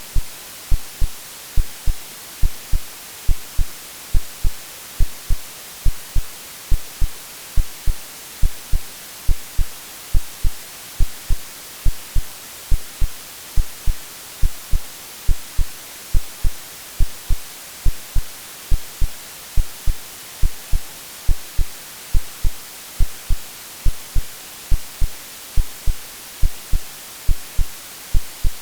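Steady white-noise hiss under a synthetic heartbeat: low, paired lub-dub thumps repeating evenly a little more than once a second. It is an AI-generated mix meant to resemble the sounds heard in the womb.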